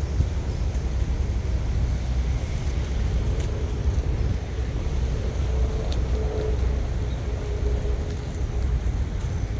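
Steady low rumble of vehicle noise, with a faint steady tone coming in about halfway through.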